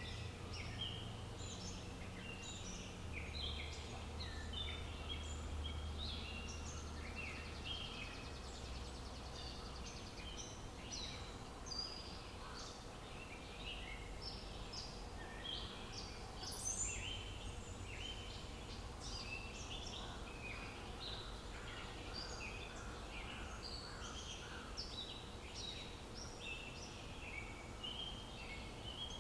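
Many songbirds chirping and singing at once in a dense, continuous chorus of short, quick calls, over a faint low rumble.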